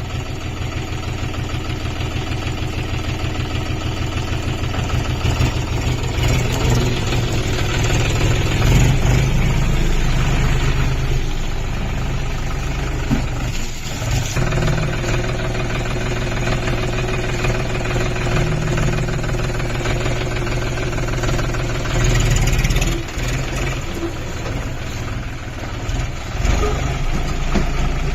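John Deere 5050D tractor's three-cylinder diesel engine running steadily with an even, rapid knock of its firing, growing a little louder over the first few seconds.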